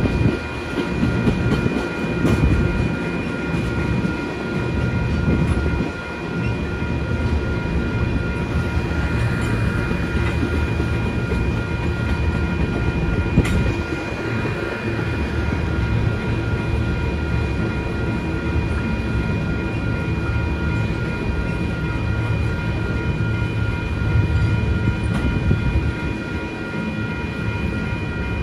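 Freight train tank cars rolling past over a grade crossing: a steady rumble of steel wheels on the rails with a few sharp knocks, while the crossing's warning bell rings in an even, repeating pulse.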